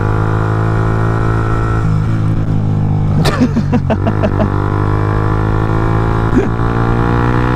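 Suzuki GSX-R125's single-cylinder engine running while riding, steady at first. It breaks up with a few short clicks and dips in pitch about three to four seconds in, then slowly rises in pitch.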